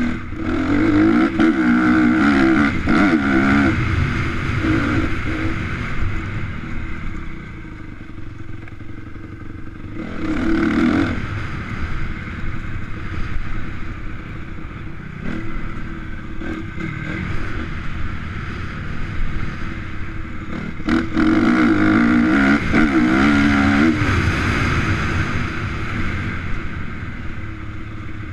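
Single-cylinder four-stroke 250 cc motocross bike (Honda CRF250) revving hard and shifting through the gears on the track. It swells loud as it comes close near the start, again about ten seconds in and again about three-quarters through, and drops to a more distant drone in between.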